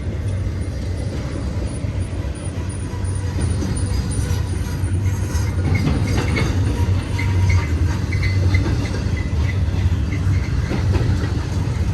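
Freight cars of a double-stack container train rolling past, a steady rumble of wheels on rails with a few short high-pitched squeaks in the middle.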